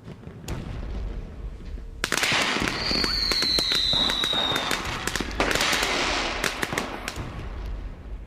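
Fireworks going off: a dense run of sharp cracks and bangs, with a whistling firework giving one slightly falling whistle about three seconds in.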